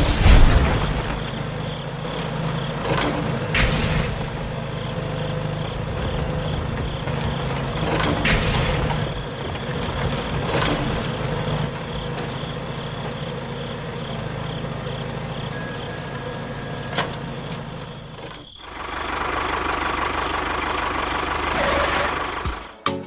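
A motor running steadily with scattered clicks and knocks. About 18 seconds in it drops out briefly, then a rougher, noisier running follows until just before the end.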